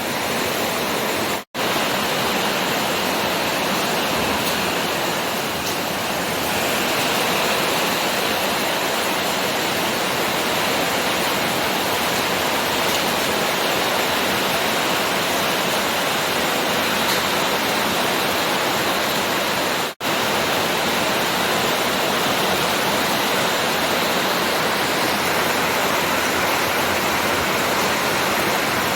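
Heavy rain pouring down in a dense, even rush of water that holds steady throughout. The sound drops out for an instant twice, once about a second and a half in and again near twenty seconds.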